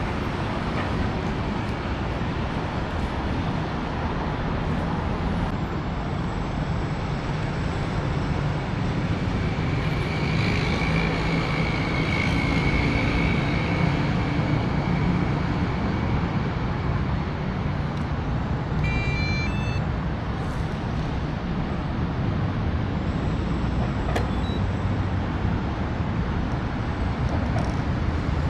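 Steady road-traffic rumble, with a thin high whine rising out of it for a few seconds about ten seconds in and a brief string of high chirping tones near the two-thirds mark.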